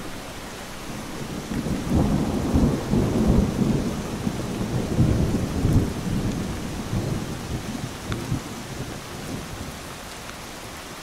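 Heavy rain falling steadily on a pond, with a long rumble of thunder. The thunder builds about two seconds in and fades away over the next several seconds.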